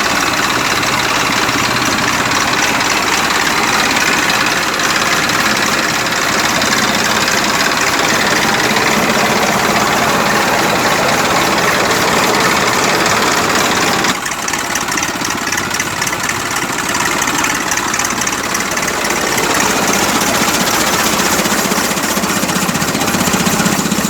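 Massey Ferguson tractor's diesel engine running steadily, driving a cutter attachment. The sound changes abruptly about fourteen seconds in, becoming thinner in its lower range.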